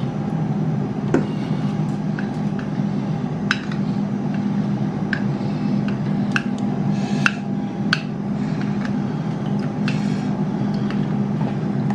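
A spoon stirring sauce in a bowl, clinking against the side every second or so, over a steady low hum.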